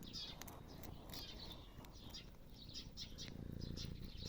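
Birds chirping: short high chirps repeated two or three times a second, over a faint low rumble.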